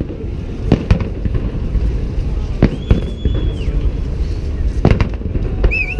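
Fireworks display: sharp bangs of bursting shells, two close together about a second in and two more near the end, over a continuous low rumble. A high steady whistle sounds for about a second in the middle.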